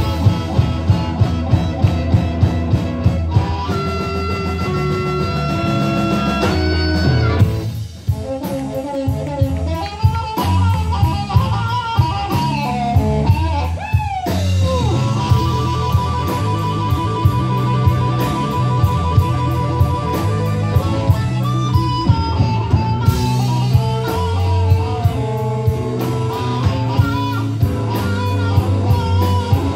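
A live band plays an instrumental break: lead guitar over bass and a drum kit keeping a steady beat. About halfway through, a note bends down in pitch, followed by a run of fast repeated notes.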